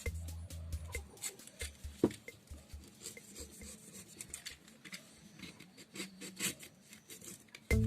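A hand tool scraping and rasping at dry coconut husk fibre in short, irregular strokes with many small clicks, as the husk is carved. Background music plays for about the first second, then stops, and comes back right at the end.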